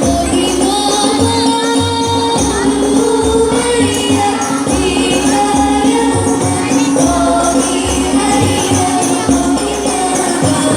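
Banjari devotional music: a solo voice sings long, ornamented lines over a steady rhythm of rebana frame drums, with deep drum strokes underneath.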